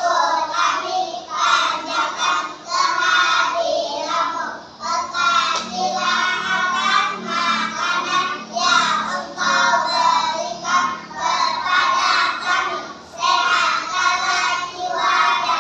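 Group of young children singing together in phrases, a song with a tune.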